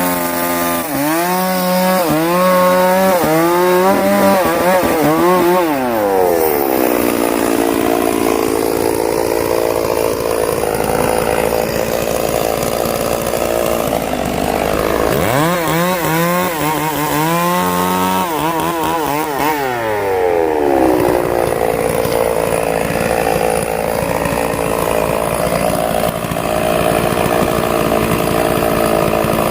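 Chainsaw running and cutting wood. It is revved up and down twice, with steadier running under load in between.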